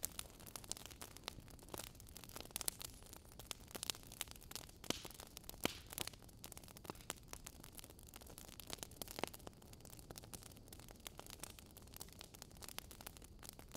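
Wood fire crackling in a fireplace: irregular snaps and pops over a soft hiss.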